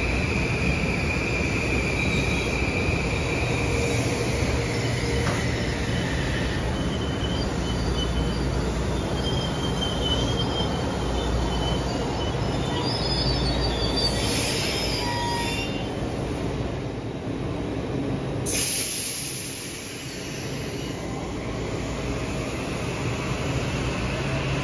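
A Metro-North M8 electric multiple-unit train rolls past with a steady rumble of wheels on rail. A high whine drops in pitch about six seconds in, and scattered wheel squeals follow. Two short sharp hisses come about two-thirds of the way through.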